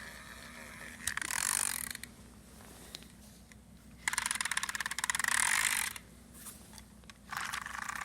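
Small toy train mechanism giving three bursts of rapid clicking and whirring, about a second in, around the middle, and again near the end.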